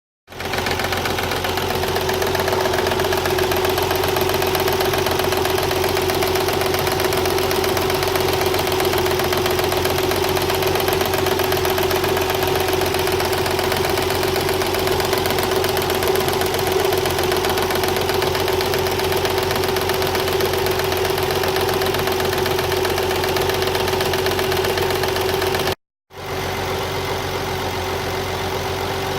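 1993 Nissan 300ZX twin-turbo's 3.0-litre V6 idling, with a steady whine over a knock: the cold-engine knock and whine that the owner finds are not cured by a new water pump or tight belts and that go away once the engine reaches 189 degrees. The sound breaks off briefly near the end and comes back a little quieter.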